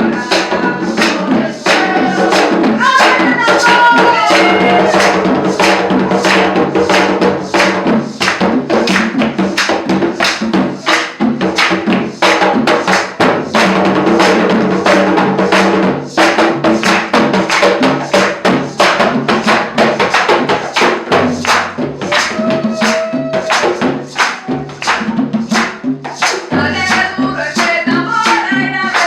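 A live cumbia band playing, with a steady percussion beat of about two to three strokes a second over sustained instrument tones. Voices sing a phrase a few seconds in and again near the end.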